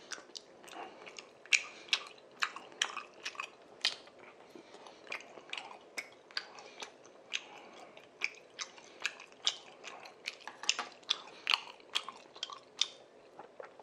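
Close-miked chewing of chewy tteokbokki rice cakes in spicy sauce: a steady run of short, wet mouth clicks and smacks, a few a second.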